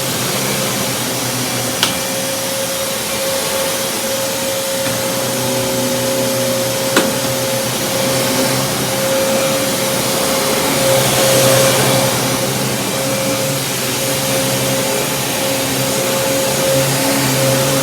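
Kenmore Progressive upright vacuum cleaner running steadily: motor whine over rushing air. There are two sharp clicks, about two and seven seconds in, and the air noise swells briefly about two-thirds of the way through.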